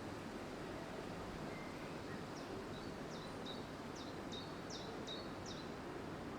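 Steady rush of wind through leaves. About two and a half seconds in, a small bird sings a quick run of about eight short, high, down-slurred chirps lasting about three seconds.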